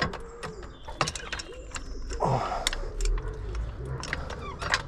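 Irregular metallic clicks and clinks of hand tools and car parts being handled, some strikes ringing briefly.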